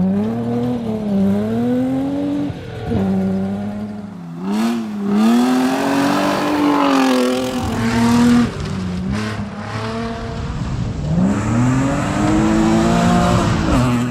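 Rally car engine revved hard, its note climbing and dropping again and again through gear changes, with abrupt jumps in the sound between runs.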